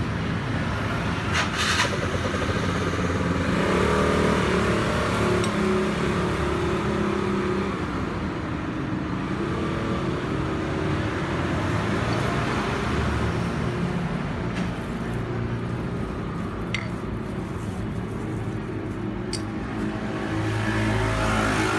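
Continuous motor-vehicle engine noise with a few sharp clicks.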